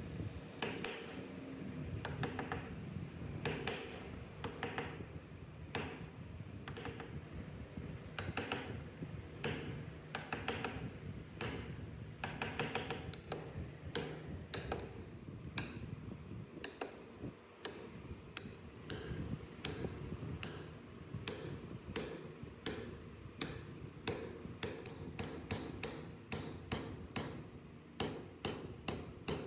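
Wood carving: a carving tool striking and cutting into wood, heard as a run of sharp, irregular taps and clicks a few times a second, coming quicker near the end, over a steady low hum.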